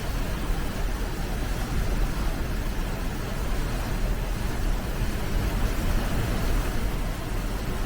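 Rushing water, a steady unbroken roar of flowing water with a deep low end.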